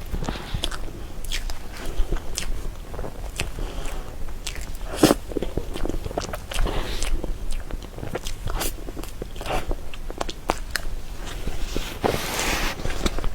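Close-miked eating sounds of soft cream cake: a string of wet chewing clicks and lip smacks, with a longer, louder noisy sound about twelve seconds in.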